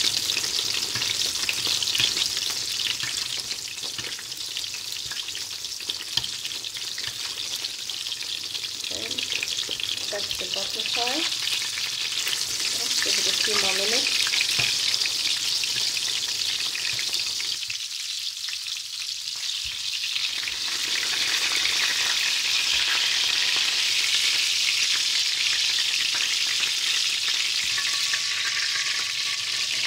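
Breaded pork schnitzel shallow-frying in plenty of hot oil in a stainless steel pan: a steady sizzle that grows louder about halfway through.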